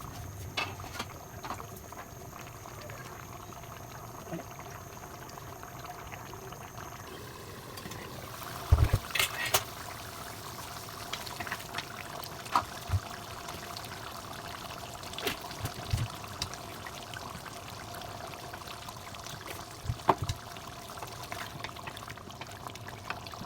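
Kitchen cooking sounds: a steady watery hiss with scattered knocks and clinks of a utensil against cookware, the loudest a cluster about nine seconds in.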